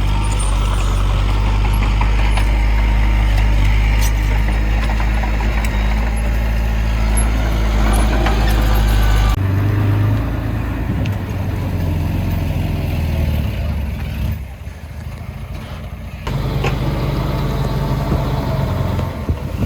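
Heavy diesel engines of earthmoving machinery running steadily. The engine sound changes abruptly about halfway through, drops away briefly and then returns near the end.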